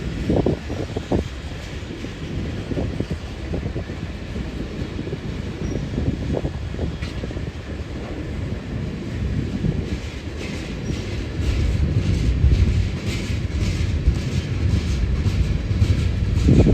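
Train rolling along the track: a steady low rumble with a few knocks early on, then from about ten seconds in a quick run of wheel clicks over the rail joints as the rumble grows louder.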